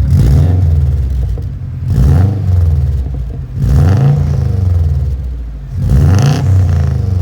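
Subaru WRX turbocharged flat-four engine revved through a newly fitted aftermarket exhaust: four blips about two seconds apart, each climbing and falling back toward idle, loud.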